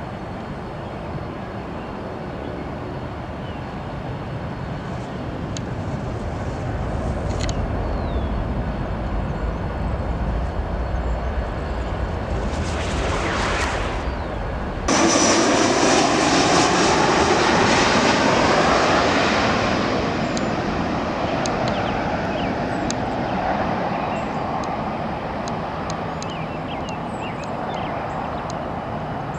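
Jet aircraft engines running as a plane passes, the noise building steadily. About halfway through it jumps abruptly louder, then the pitch falls and the sound slowly fades as the aircraft goes by.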